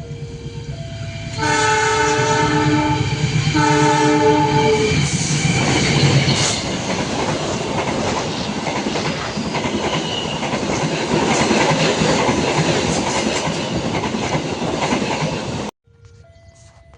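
Two-tone level-crossing warning alarm, then two long blasts on a train's horn, the second shorter. After that, a train passes close by, a loud steady rumble with wheel clatter, which cuts off abruptly near the end.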